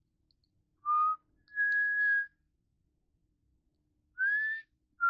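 A person whistling a few clear notes: a short lower note about a second in, a higher note held for under a second, then a note that slides upward near the end.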